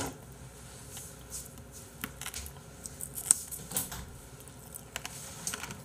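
A person chewing a mouthful of braised chicken close to the microphone: irregular small wet clicks and smacks from the mouth.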